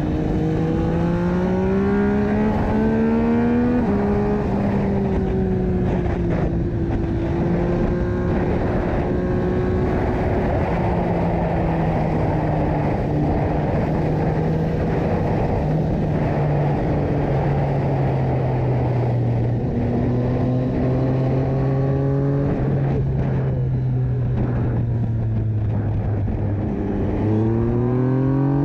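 Yamaha MT-09 (FZ-09) inline-three motorcycle engine through an Akrapovic exhaust, revving up under acceleration with a drop in pitch at a gear change about four seconds in. It then holds a fairly steady engine speed with wind noise, eases off in the second half, and accelerates again near the end.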